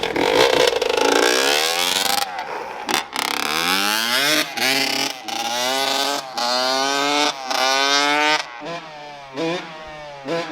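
Honda CR85 two-stroke dirt bike engine revving hard as the bike accelerates through the gears, its pitch climbing and dropping back with each shift about six times. It grows fainter near the end.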